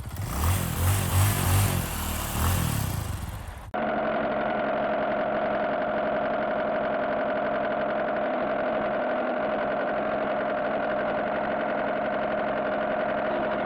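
Engine sound effect laid over the toy car video: a car engine starting and revving with deep pulsing, then an abrupt cut a little under four seconds in to a steady idle with a constant hum.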